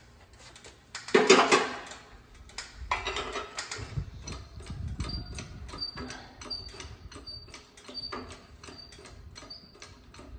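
Small hand-operated press brake bending 3/16-inch steel plate: two loud metallic clatters, then about two clicks a second, each with a short squeak, as the bend is worked a little further.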